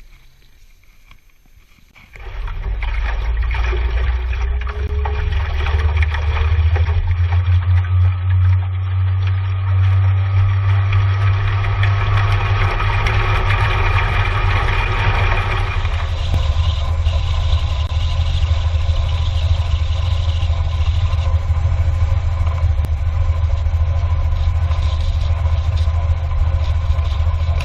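Outboard motor on a rigid inflatable boat starts up about two seconds in, then runs steadily and loudly, with a deep hum under a wide noise; its sound shifts a little past the middle.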